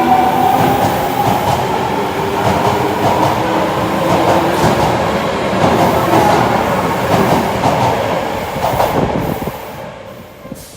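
Subway train running through an underground station, its wheels clacking over the rail joints, the sound dying away over the last couple of seconds.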